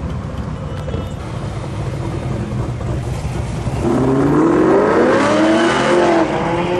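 A car engine rumbling, then accelerating from about four seconds in: it grows louder and its pitch rises.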